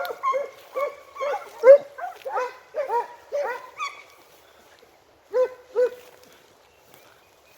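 Segugio scenthounds giving tongue on a hare's scent: a run of short baying calls about two a second, overlapping at first, thinning out after about four seconds, then two more after a short pause.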